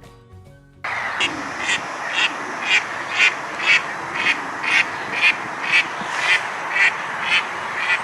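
Duck quacking over and over, about two quacks a second, starting about a second in over a steady background hiss.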